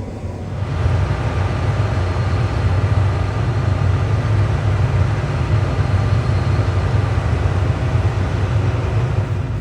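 Vehicle engine running steadily: a loud low rumble that comes up about a second in and holds.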